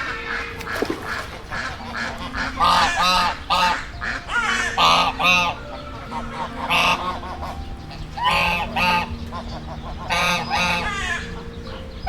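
Domestic fowl calling: loud, harsh, repeated short calls, often two or three in quick succession, with gaps between the groups.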